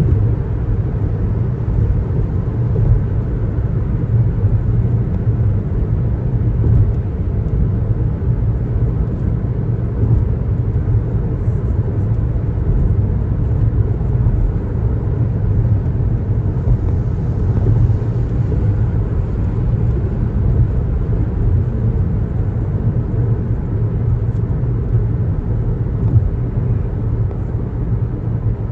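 Steady road noise from a moving car: tyre and engine rumble that holds an even level, with no change in speed to be heard.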